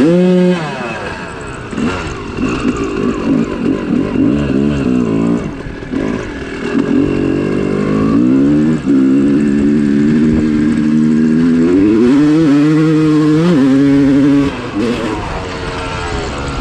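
Dirt bike engine being ridden, its revs rising and falling repeatedly. It then holds steady at high revs for about six seconds, climbs once more and drops off sharply near the end.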